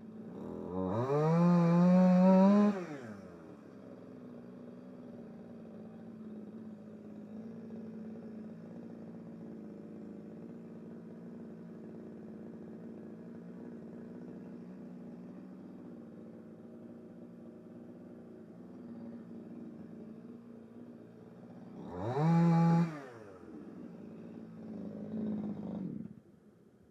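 Gas chainsaw revved up briefly, then idling steadily for about twenty seconds. It is revved once more near the end and then shuts off.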